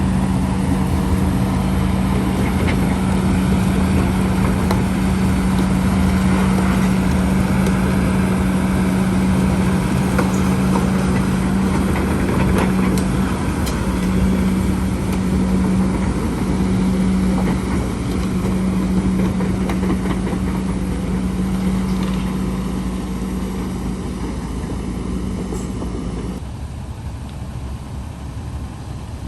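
Heavy earthmoving machine's diesel engine running steadily with a constant low hum, as used for dredging a canal. The engine hum cuts off about 26 seconds in, leaving a quieter background.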